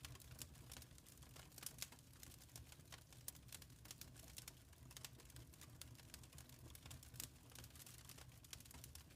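Wood fire crackling faintly: irregular small snaps and pops, several a second, over a soft low rumble of burning.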